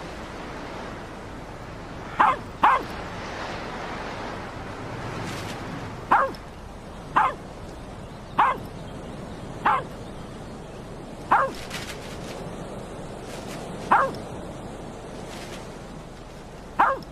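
Dog barking in single short, sharp barks, about nine of them a second or two apart, over a steady rush of wind.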